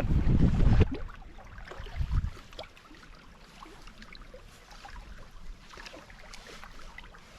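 Wind buffeting the microphone for about the first second and again briefly about two seconds in, then small waves lapping at the water's edge with faint scattered splashes.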